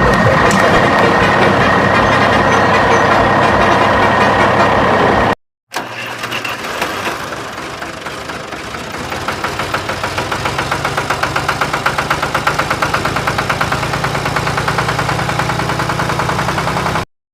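Vehicle engine sounds: a loud steady noisy stretch with a high thin tone, a sudden cut, then an engine starting up and running with a rapid pulsing beat that grows louder and quicker, cut off again near the end.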